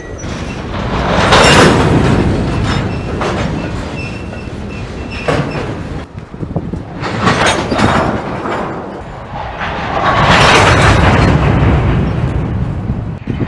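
Freight cars, covered hoppers and tank cars, rolling slowly past: steel wheels rumbling and clacking on the rails while couplers clank and bang as slack runs in and out between the cars. Loud swells come about a second in and again near ten seconds, with sharp knocks in between.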